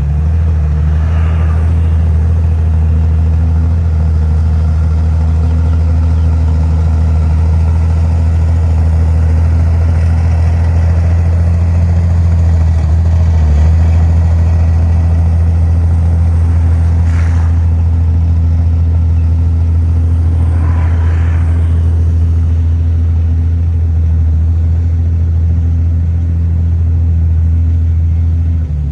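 Heavy earthmoving machine's diesel engine running steadily, a deep low drone, with a few faint brief higher sounds over it.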